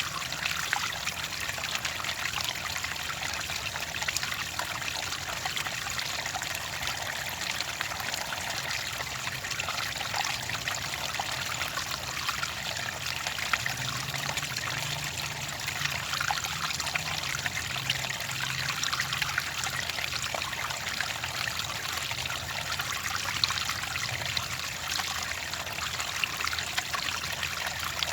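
Clear water trickling and splashing steadily, a continuous bright babble without pauses.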